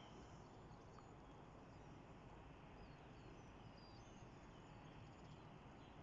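Faint, high bird chirps, short and scattered, heard over a steady background hiss.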